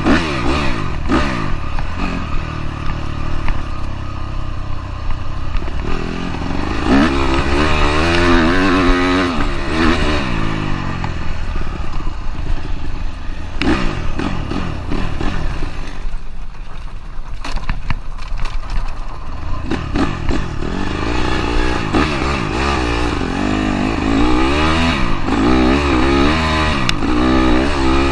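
Dirt bike engine revving up and down over and over as it is ridden, easing off briefly about halfway through.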